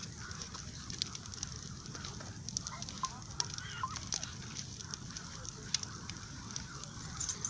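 Wood bonfire crackling, with irregular sharp pops and snaps.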